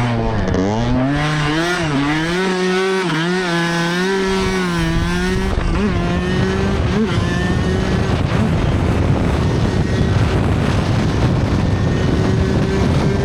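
Dirt bike engine revving up and down repeatedly, then holding a steadier pitch under heavy wind rush from about six seconds in.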